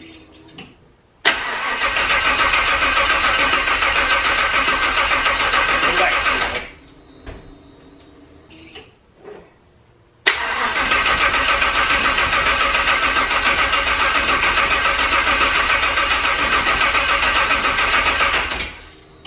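Starter cranking the twin-turbo aluminum-block 5.3 LS V8 in two steady runs, about five seconds and then about eight seconds, each starting and stopping abruptly without the engine catching on a first start-up attempt.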